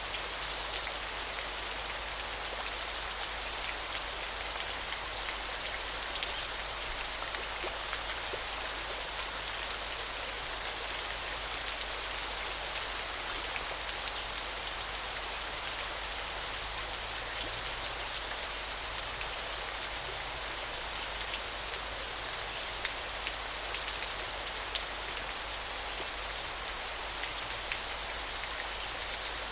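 River water rushing steadily. A thin, high-pitched trill repeats over it, each trill lasting a second or two with short breaks between.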